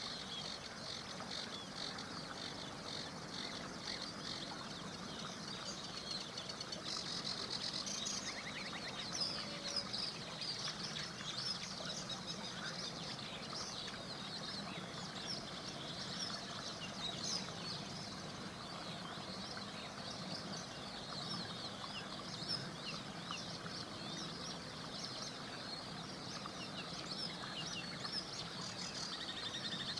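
Birds singing in a dense chorus of quick, high chirps and trills over the steady rush of a small river.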